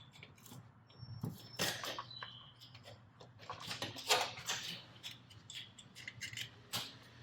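Wrench and ratchet work on the turbocharger mounting nuts: irregular metallic clicks and knocks, with a few short high squeaks, as the nuts are tightened up in torque steps.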